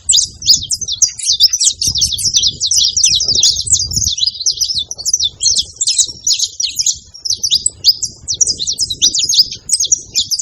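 Saffron finch chirping in a dense, unbroken run of quick, high notes and short trills, over a faint low rumble.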